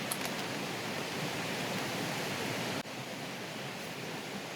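Steady rushing of a valley stream's flowing water, with a slight drop in level a little under three seconds in.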